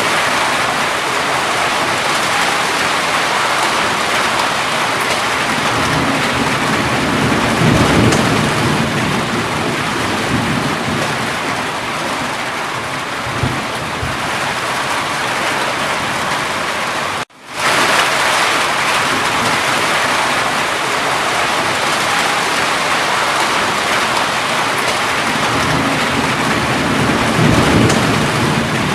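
Steady, heavy rain falling, with low rumbles of thunder swelling twice, once about a quarter of the way in and again near the end. The sound cuts out for a split second about halfway through.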